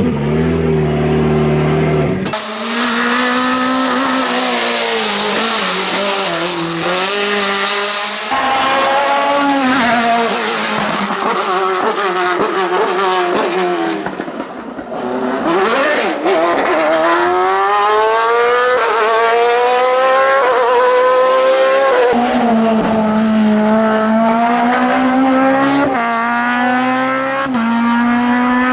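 Hillclimb race cars at full throttle in a series of short clips cut together. Their engines rev up through the gears with quick upshifts.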